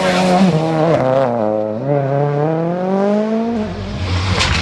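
Rally car engine at high revs, dropping in pitch about a second in and then climbing steadily as the car accelerates. Near the end the sound changes abruptly to a lower rumble with several sharp clicks.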